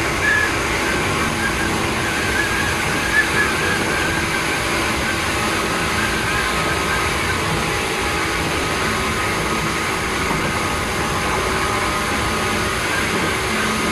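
Tokyu 8500 series electric train running between stations, heard aboard motor car DeHa 8535: a steady rolling and motor noise with faint high whines over it.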